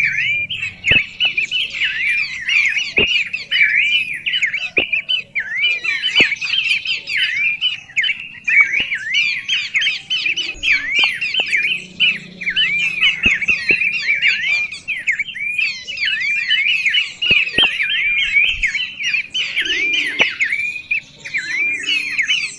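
Birds calling in a continuous, dense chatter of rapid high chirps, several overlapping, with occasional sharp clicks.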